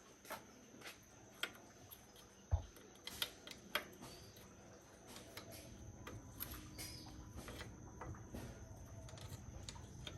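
Scattered light clicks and taps, as of hand work on metal parts, with one dull thump about two and a half seconds in and a faint low hum in the second half.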